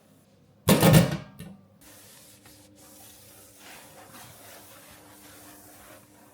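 Kitchen cleaning sounds: a short, loud rasping burst less than a second in, then quieter rubbing and scraping.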